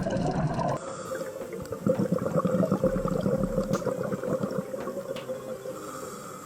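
Bubbling, gurgling water with a steady hum; the sound changes abruptly about a second in.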